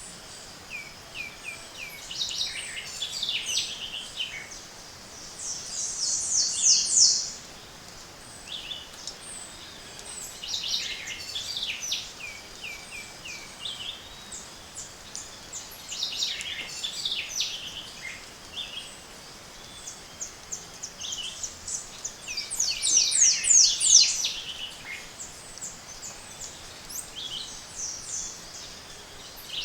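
Tropical forest dawn chorus: several birds singing over each other, with phrases of quick, high notes coming at intervals, the loudest twice.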